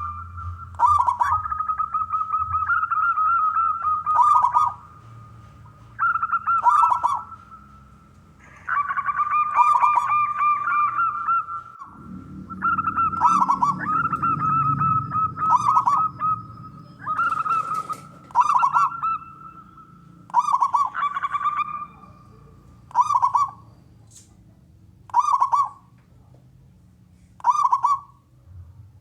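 Male zebra dove (perkutut) cooing in repeated phrases. The first half holds several long runs of coos, and after that come shorter phrases about every two seconds.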